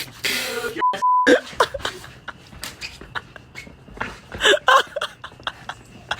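A short, steady, high censor bleep about a second in, with the audio around it cut out, among bursts of the group's voices and mouth noises.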